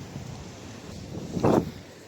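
Wind buffeting the microphone, a low rumbling noise, with one short, loud thump about one and a half seconds in.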